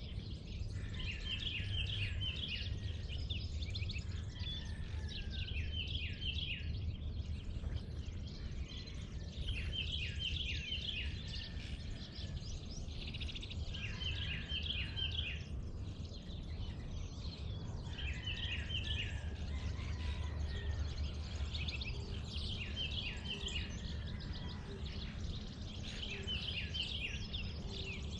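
A songbird sings short phrases of quick falling notes, repeated every few seconds, over a steady low rumble.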